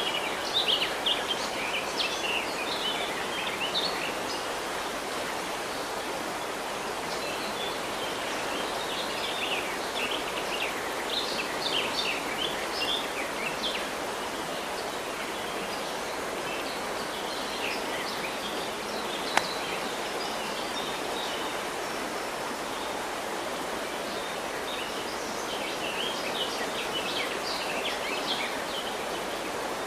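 River water running steadily, with birds chirping over it in clusters of quick, high calls. A single sharp click sounds about two-thirds of the way through.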